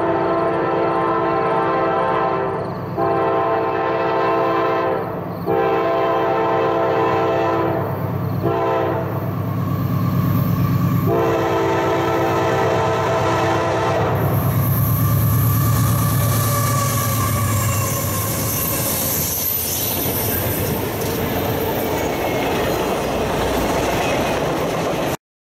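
Diesel freight locomotive's multi-chime horn sounding a series of long blasts with a short one in between, the pattern blown for a grade crossing, then the locomotive passes close by with engine rumble and wheels clattering on the rails. The sound cuts off suddenly near the end.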